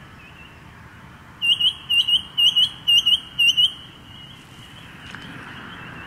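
A bird close by gives a quick run of sharp, high calls, about five pairs in two seconds, over a faint background of other birds chirping in the dawn chorus.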